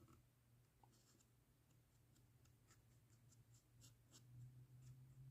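Faint scratchy strokes and ticks of a fine-tip alcohol marker being worked over a gray-primed model surface, a quick run of light touches, over a low steady hum.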